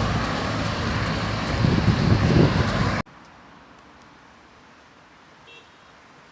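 Road traffic noise with wind buffeting the microphone in low gusts. It cuts off suddenly about three seconds in, leaving a faint steady hiss.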